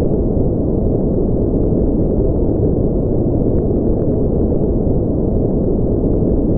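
White noise sleep-aid track: a steady, deep hiss with no high treble and no change in level.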